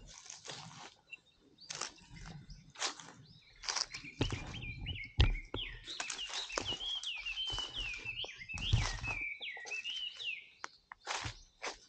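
Small birds chirping repeatedly in short up-and-down calls, over irregular crunches and rustles, with one sharp knock about five seconds in.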